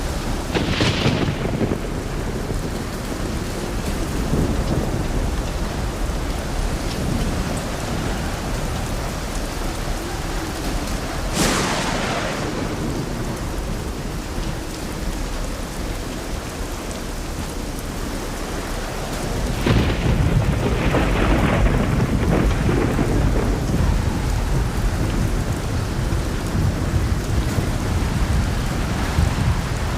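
Steady rain falling, with thunder. A short crack comes about a second in, a sharper crack about a third of the way through, and a longer, louder low rumble starts about two-thirds through.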